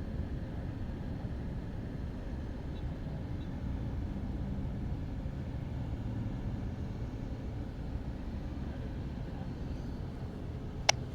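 Steady low rumble of distant jet engines and airport traffic, with one short sharp click near the end.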